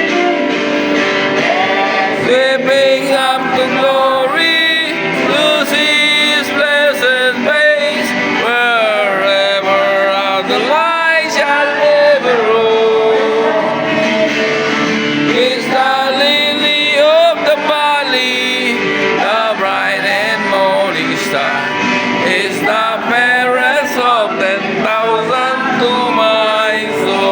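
A gospel hymn sung by voices over a strummed guitar accompaniment, with the melody rising and falling in long held notes.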